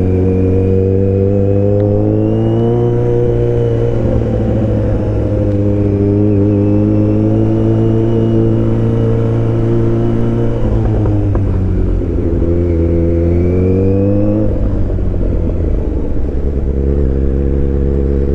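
Kawasaki Z900's inline-four engine running under way. The engine note climbs a couple of seconds in and then holds, drops about halfway through, climbs again and settles to a steady drone.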